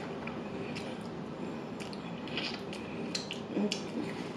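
Close-up chewing of chicken wings: a scatter of small wet mouth clicks and smacks, with a brief low murmur about three and a half seconds in.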